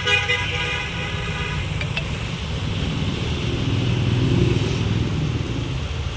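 A vehicle horn's last tone fading out in the first second or so, then a car engine running with a low rumble that swells around the middle and eases off.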